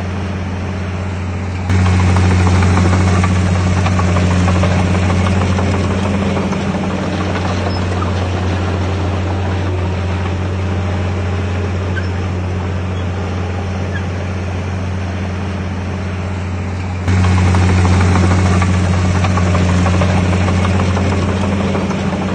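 Heavy diesel engine of earthmoving machinery running steadily under load, with a deep, even hum. It gets abruptly louder twice, about two seconds in and about three quarters of the way through.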